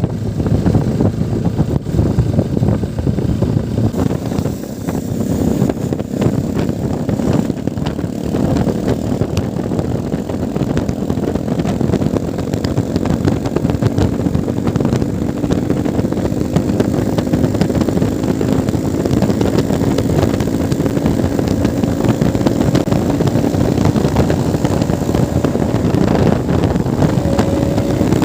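Motorcycle engine running on the move, with rough wind noise on the microphone; the engine note rises slowly through the second half.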